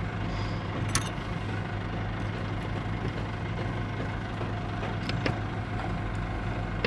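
Engine idling steadily with a low hum. A few sharp clicks rise over it, one about a second in and another about five seconds in, from the gear parts being handled.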